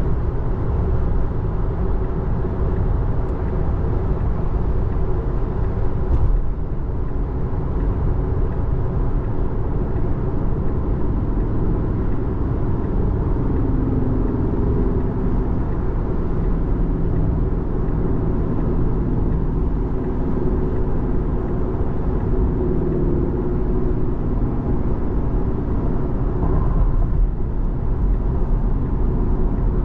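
Steady road and tyre noise heard inside the cabin of a 2024 Tesla Model 3 cruising at freeway speed, a continuous low rumble with no engine note.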